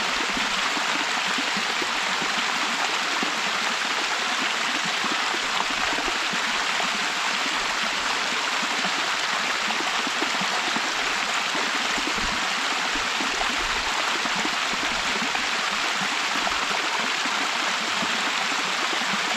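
Waterfall pouring steadily over its lip, an even rushing of falling water with a low rumble underneath.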